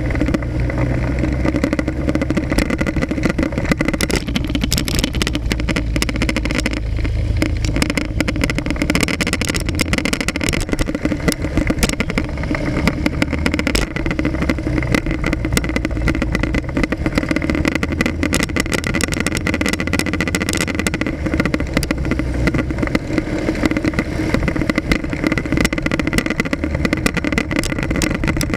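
Motorcycle engine running steadily while riding in city traffic, heard from an action camera mounted on the front of the bike, with continuous road and traffic noise.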